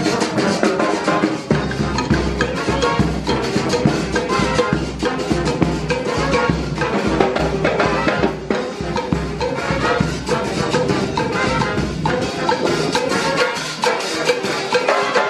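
Murga band playing a festive instrumental tune, brass over drums and percussion, with a deep bass pulse that drops out about three-quarters of the way through.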